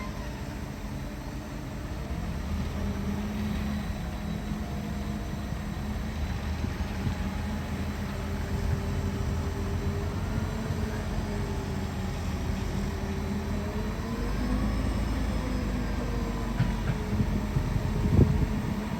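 Shantui bulldozer's diesel engine running under load, its pitch rising and falling as it works, with a sharp clank near the end.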